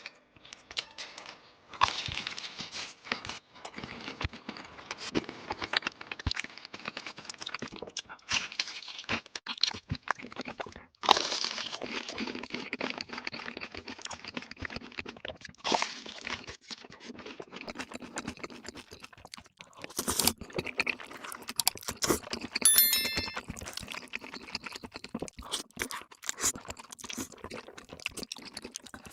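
Paper and cardboard fast-food packaging being handled, crinkled and torn open, with dense crackling rustles and sharp clicks. A brief high ringing tone sounds about three-quarters of the way through.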